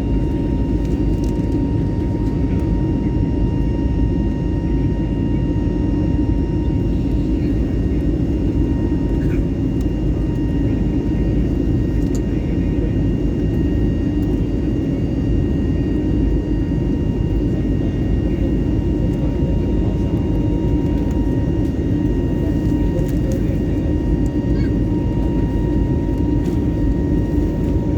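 Steady airliner cabin noise in flight: a dense, even rumble of engines and airflow, with a thin steady whine and fainter higher tones above it.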